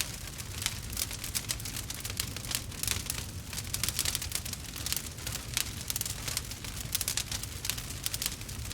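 Burning wood fire crackling and popping: a dense, irregular run of sharp snaps over a low, steady rumble of the flames.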